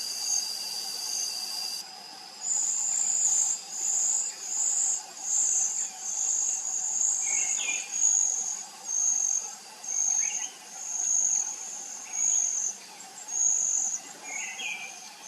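High-pitched insect buzzing: a steady whine for about two seconds, then regular pulses about one a second. A few short bird chirps sound over it.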